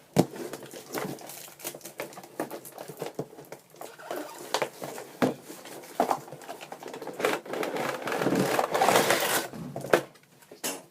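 A cardboard toy box being opened by hand and the packaging slid out: scattered taps and clicks of cardboard flaps, with scraping and rustling. The loudest part is a longer rustle about eight to nine and a half seconds in.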